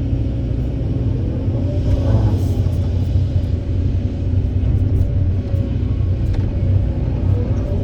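Heavy diesel engine of construction machinery running steadily, with a short rising whine about two seconds in.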